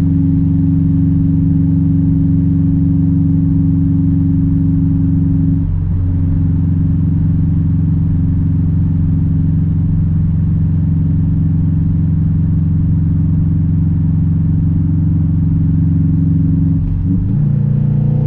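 Straight-piped exhaust of a 2006 Subaru WRX STI's turbocharged flat-four engine, droning at a steady engine speed. It eases slightly about six seconds in and dips briefly near the end.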